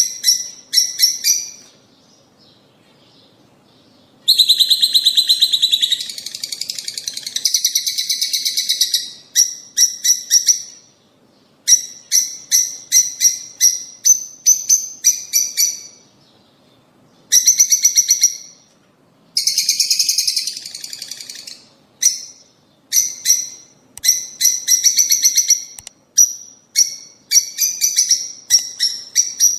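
Lovebirds calling: runs of rapid, sharp chirps, broken by longer spells of dense, buzzy chattering about four seconds in and again around seventeen to twenty-one seconds, with short pauses between bouts.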